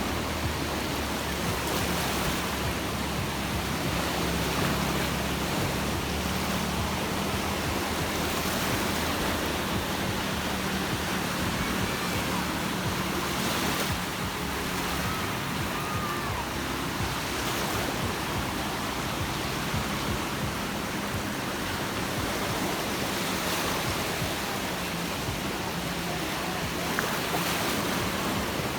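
Sea surf washing onto a beach: a steady, even rushing of waves.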